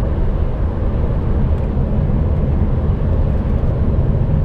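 Steady low drone of an HGV's engine and tyre noise, heard from inside the cab while driving at motorway speed.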